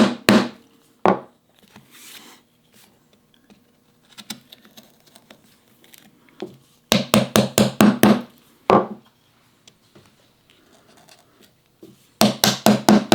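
Mallet striking a chisel to chop out the waste between dovetail pins, in quick runs of sharp knocks. There are a couple of knocks at the start and about a second in, a run of about eight around seven seconds in, and another run near the end. Between the runs there are small scraping sounds.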